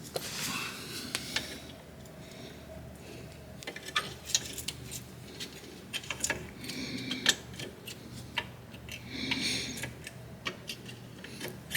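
Scattered light metallic clicks and clinks, with a few short scrapes, as hand tools and brake parts are handled at a car's brake caliper.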